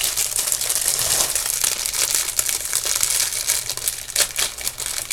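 Packaging crinkling and rustling in the hands as a jewelry piece is unwrapped, a continuous run of small crackles.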